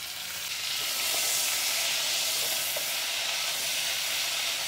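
Raw chicken pieces sizzling in hot ghee with fried onions in a cooking pot: a steady frying hiss that swells over the first second as the chicken hits the fat, then holds.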